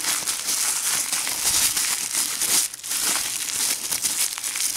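Packaging being crumpled and unwrapped by hand, a continuous irregular crinkling as a lock is pulled out of its wrapping.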